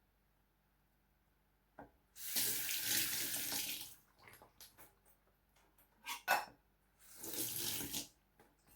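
Kitchen tap running into a sink in two short bursts, the first about two seconds long and the second about a second, with a few small knocks in between.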